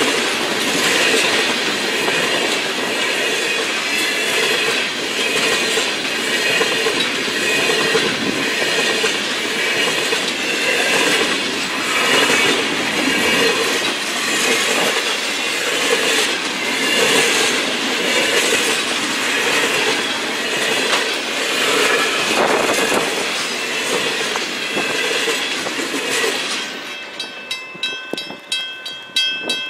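A train passing close by, its wheels clacking over the rails in a steady rhythm with some squeal. Near the end the last car clears, and the level-crossing bell is left ringing in quick, even strokes.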